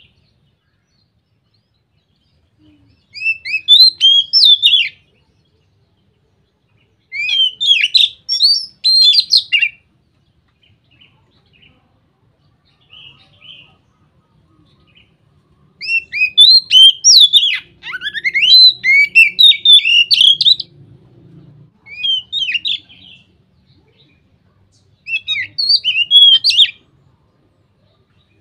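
Oriental magpie-robin (kacer) singing full, open 'ngeplong' song: rapid runs of varied whistled and sliding notes, in five phrases of one to five seconds with short pauses between, the longest about halfway through.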